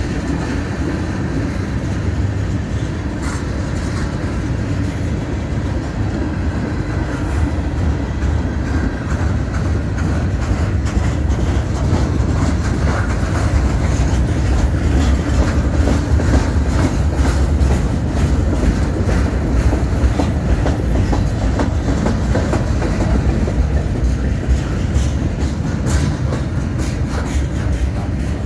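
Cars of a Canadian National mixed freight train (tank cars, a boxcar and a lumber-loaded flatcar) rolling past with a steady low rumble. The wheels click and clack over the rail joints throughout.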